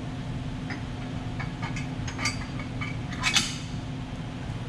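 Light metallic clinks and taps of a metal touch-off plate being handled and set back into its slot on a CNC router's spindle column, with a louder clatter about three seconds in. A steady low hum runs underneath.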